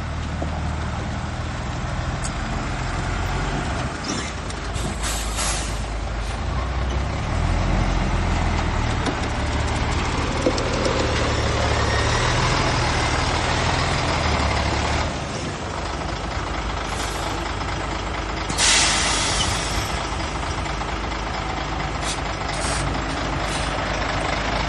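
Heavy diesel machinery running steadily: dump truck and bulldozer engines. Short air-brake hisses come about five seconds in and again, louder, about nineteen seconds in.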